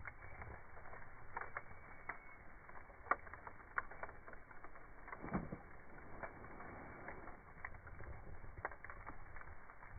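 Wood campfire crackling, with scattered snaps and pops over a low hiss: a sharp snap about three seconds in and a louder, longer pop a little after five seconds.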